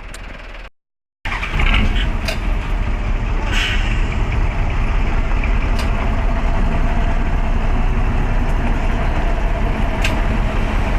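A truck's diesel engine running steadily, starting abruptly about a second in after a brief dropout, with a few sharp clicks or knocks over it.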